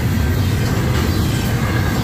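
Double-stack intermodal well cars of a freight train rolling past close by, a loud, steady rumble of steel wheels on rail.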